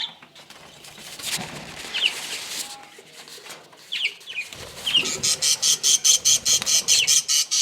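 Budgerigars chirping: a few short, quick chirps, then from about five seconds in a rapid, even run of harsh high calls, about five a second.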